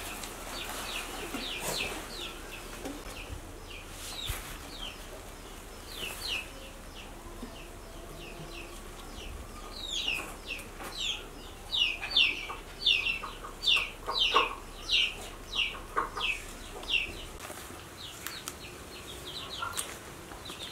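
A bird peeping: short, high, falling peeps, faint at first, then a steady run of about two a second through the middle, thinning out near the end.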